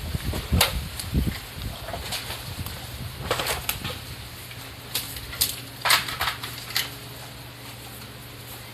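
Scattered sharp snaps and crackles of fallen bamboo and bamboo grass being broken and trampled by cattle, several in quick clusters.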